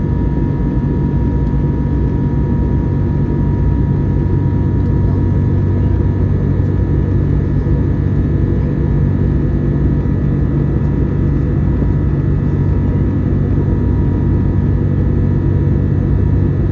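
Steady cabin noise of an Airbus A321neo in flight after take-off: the even rumble of its Pratt & Whitney geared turbofan engines and the airflow, with a thin steady whine held above it.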